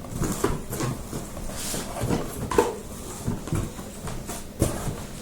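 Cardboard box and packing material being handled and pulled apart: irregular scrapes, rustles and soft knocks.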